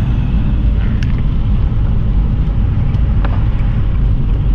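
Steady low rumble of engine and road noise heard from inside a moving car, from the back hatch area, with a few faint light ticks.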